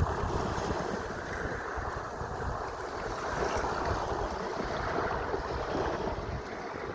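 Sea surf washing in a continuous rush that swells and eases gently, with wind buffeting the microphone as a low, uneven rumble.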